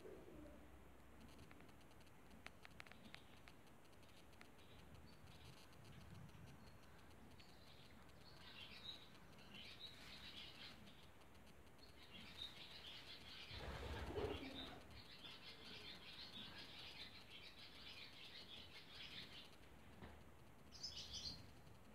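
Small birds chirping and twittering faintly and on and off, with a brief louder low sound a little past the middle.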